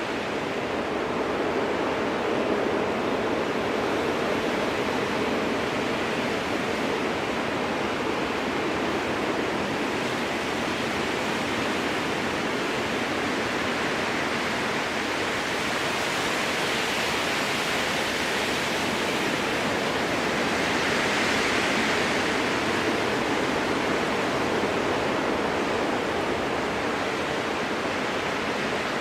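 Strong wind rushing through spruce trees, a steady roar that swells a little higher in pitch about two-thirds of the way through.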